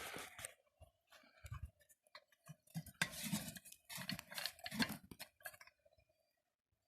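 Irregular clinks and knocks of a metal kettle being set and settled on the stones and logs over a campfire, falling quiet near the end.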